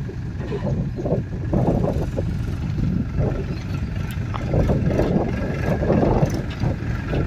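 Diesel engine of farm machinery running steadily, with its sound rising and falling.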